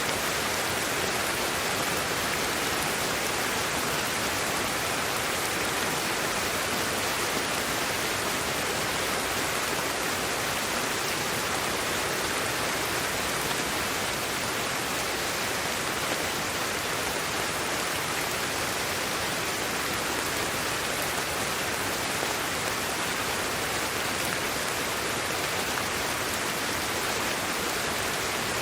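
Steady sleep-aid white noise: an even, unchanging hiss spread mostly across the middle and high range, with no breaks or events.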